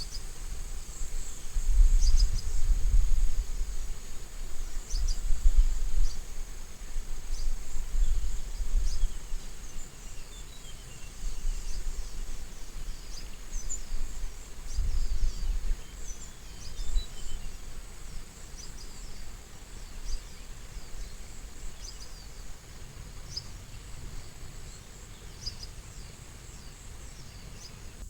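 Steady high-pitched insect drone, with a low wind rumble on the microphone that comes and goes in gusts, and scattered short bird chirps.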